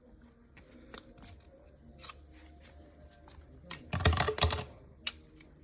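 Fibrous sugar cane cracking and splintering: a few single snaps, then a loud burst of crackling about four seconds in.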